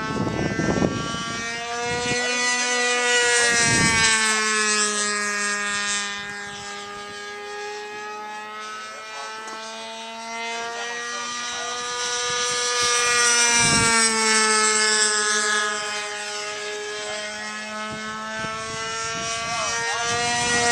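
Radio-controlled model airplane engine buzzing in flight. It grows louder and softer twice as the plane passes, with its pitch rising and falling on each pass. A steady lower hum runs underneath.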